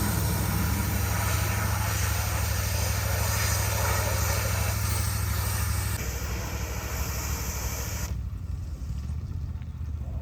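Gas pressure washer running, its engine rumbling steadily under the hiss of the water spray. About eight seconds in the spray hiss cuts off and the engine keeps running.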